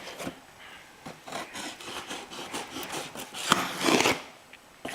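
Leatherman knife blade cutting through the packing tape and cardboard of a shipping box, scraping in short irregular strokes, with a louder stroke starting with a sharp click about three and a half seconds in.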